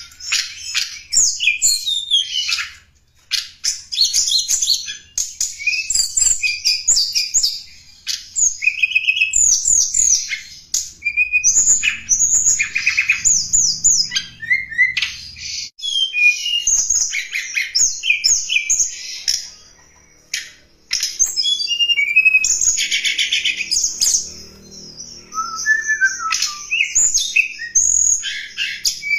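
Tledekan gunung songbird singing continuous, varied phrases of quick high chirps, trills and up-and-down whistled glides, with short pauses between bursts. It is a lure-call (suara pikat) recording of the song, used to draw in wild birds of its kind.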